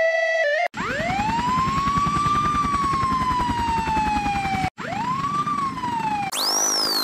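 Siren winding up and slowly falling, twice, over a helicopter's rotor beating rapidly; near the end the same sound plays sped up, higher and shorter. It opens with the last stepped notes of a siren tune.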